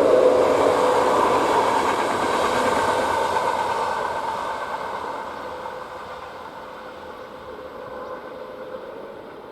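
A train running past and moving away, its rail and running noise with a faint steady whine fading over about six seconds to a low rumble.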